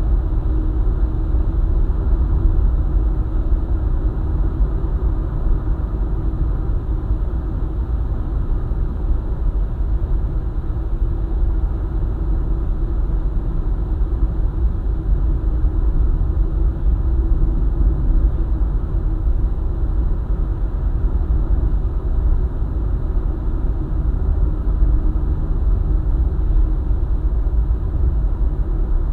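Steady road rumble of a car driving along a highway: tyre and engine noise at cruising speed, deep and unchanging.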